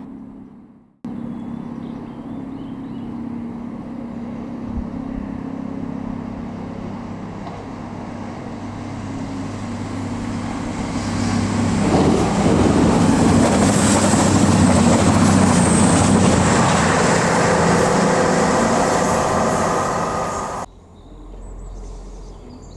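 A train approaching and passing close by. Its sound grows louder through the first half and is loudest in the second half, then cuts off abruptly near the end.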